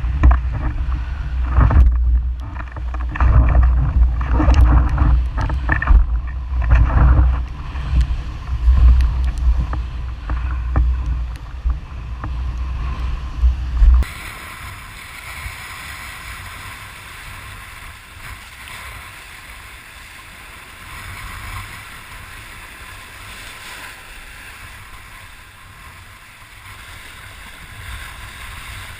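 Wind buffeting the microphone in loud gusty rumbles, with water rushing and splashing, while windsurfing. About halfway through it cuts suddenly to a quieter, steady rush of wind and water.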